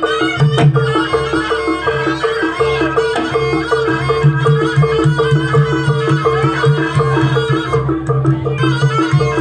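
Javanese jaranan-style folk ensemble music: a reedy slompret shawm plays a winding melody over a steady repeating two-note beat of tuned percussion and a low sustained drone.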